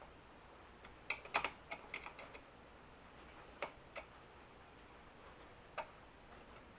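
Light metal clicks and taps from hand work on a Homelite XL chainsaw's bar and chain while the chain is being tensioned: a quick irregular cluster of about eight clicks about a second in, then three single clicks spread over the next few seconds.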